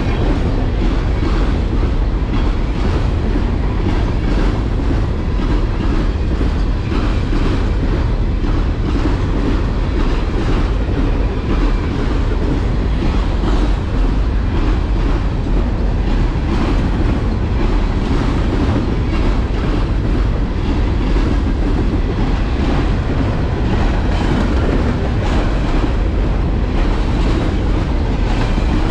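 A train rolling steadily past, a continuous rumble with its wheels clicking over the rail joints.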